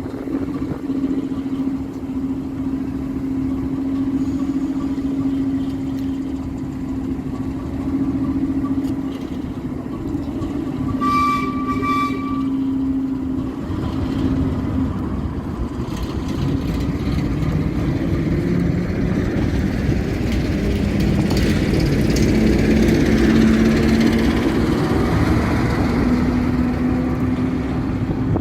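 Diesel locomotive engine running steadily, with a short horn toot midway, after which the engine grows louder as it works harder or draws nearer.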